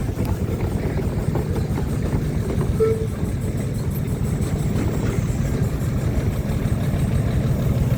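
An engine running steadily at idle, a low even rumble, with a brief short tone about three seconds in.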